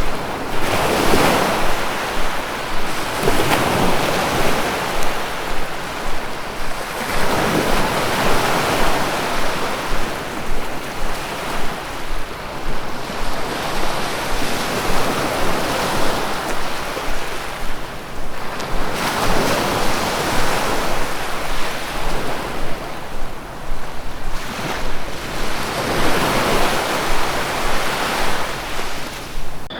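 Ocean surf: waves breaking and washing in over a constant rush, swelling up and falling back every few seconds.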